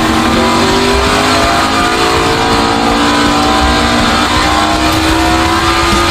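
Race car engines revving and running at speed, their pitch slowly rising.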